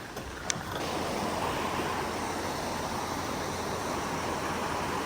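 Steady rushing of a flood-swollen stream, with a single sharp click about half a second in.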